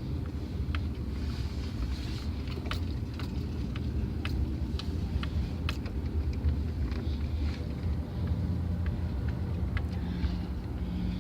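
Truck driving on the road, heard from the back of the truck: a steady low rumble of engine and tyres, with frequent sharp rattles and clicks.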